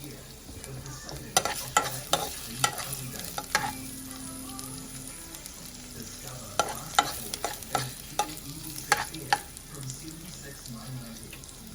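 Food sizzling as it fries in a pan and is stirred, with the cooking utensil knocking and scraping against the pan in two runs of sharp clacks.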